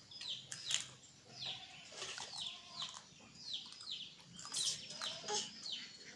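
Small birds chirping: short, high notes that slide downward, repeated about once a second, with a few light clicks among them.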